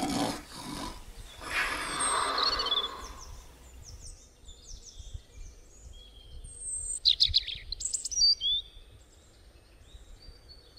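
Songbirds chirping and calling, with a quick rapid trill of repeated notes about seven seconds in, after a brief rushing noise at the start.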